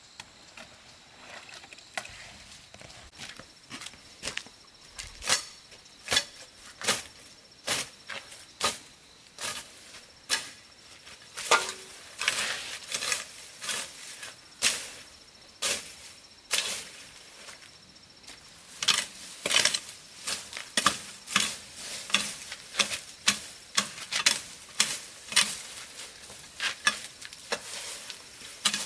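A series of sharp taps or clicks, irregular at roughly one to two a second and coming closer together in the second half, over faint steady high-pitched tones.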